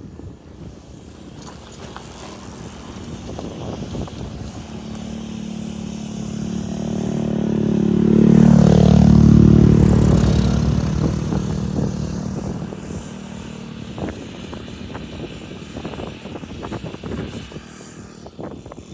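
A motorcycle passes close by. Its engine grows louder, peaks about nine seconds in with a drop in pitch as it goes past, then fades away.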